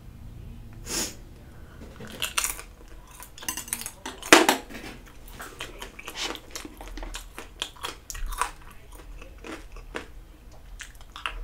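Close-up mukbang chewing of chewy rice cakes (tteokbokki) in creamy carbonara sauce: wet mouth smacks and squelches. Utensils clink against the cups now and then, with one sharp click about four seconds in.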